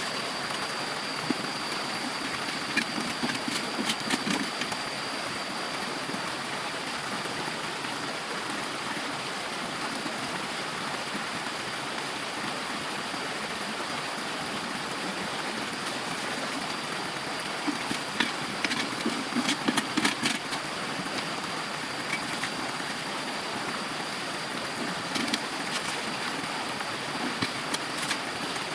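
Steady rush of flowing stream water, with scattered sharp clicks and knocks in a few clusters.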